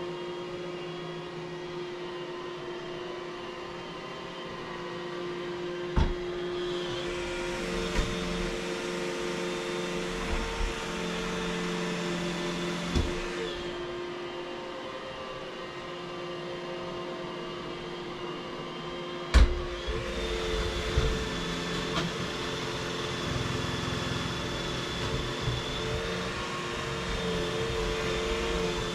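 Vacuum cleaner running steadily on a kitchen floor, its sound brightening and easing as it is pushed about, with a few sharp knocks, the loudest about two-thirds of the way through.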